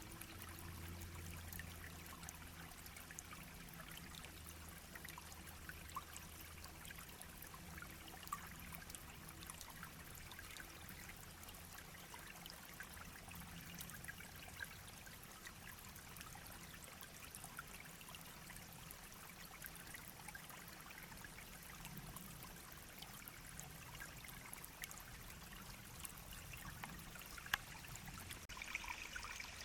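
A small stream babbling and trickling steadily, turning a little brighter and hissier near the end.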